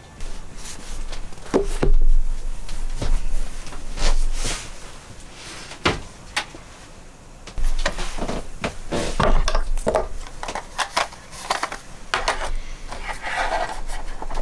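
Irregular knocks, clatters and rubbing from hand work with objects in a small room, with a longer scraping sound near the end.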